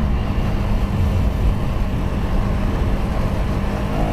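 KTM 250 Duke's single-cylinder engine running at steady, moderate revs while the motorcycle rides along, with wind and road noise around it.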